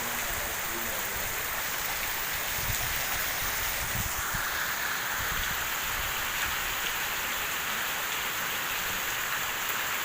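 Steady rain falling, an even hiss of drops on surfaces, with a few low rumbles in the middle.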